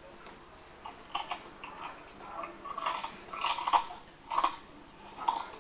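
Close-miked chewing of food, played back through the installation's speakers, in irregular crackly bursts that begin about a second in.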